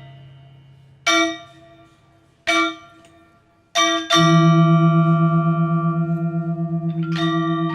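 Struck metal percussion: three single bell-like notes ring out and fade, about a second and a half apart. About four seconds in, a deep gong-like tone starts and keeps ringing with a slow, even pulsing. Quick metallic notes join near the end.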